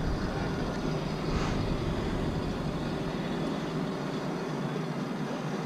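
A machine engine running steadily: a continuous low rumble with no distinct events.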